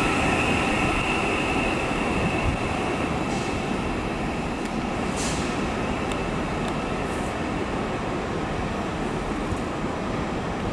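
Train moving through the station: a steady rumble of wheels and traction that slowly fades, with a faint high tone dying away early on.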